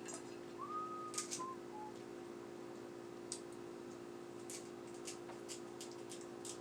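Quiet eating sounds: scattered faint lip smacks and clicks from someone eating a seafood boil, over a steady low hum. A brief high squeak about a second in.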